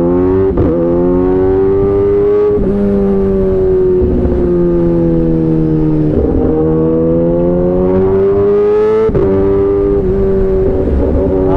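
Kawasaki ZX-10R inline-four engine under way, climbing in pitch as it accelerates and dropping back briefly at several gear changes, with wind rush underneath.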